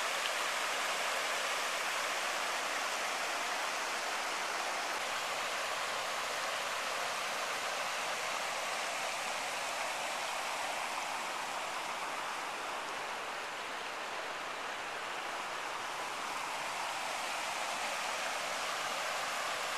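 Flash-flooded creek water rushing, a steady hiss and rush.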